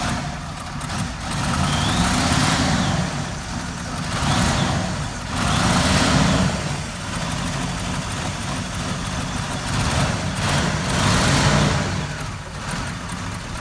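Motor vehicle engines running, the sound swelling and fading several times.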